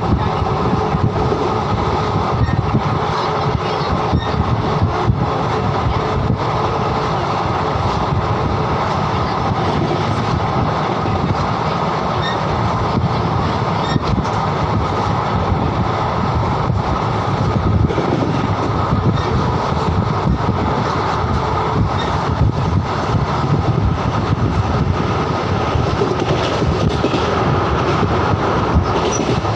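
Moving train running along the track, a steady, unbroken rumble and rail noise.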